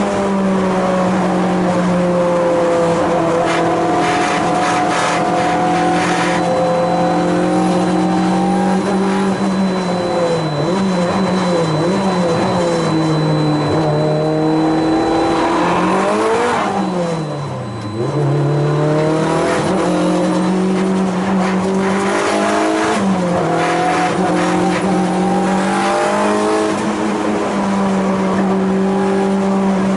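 Time attack race car engine running hard at high revs. Its pitch holds steady for long stretches, then falls sharply about two-thirds of the way through as the car slows and shifts down. It climbs again as the car accelerates away.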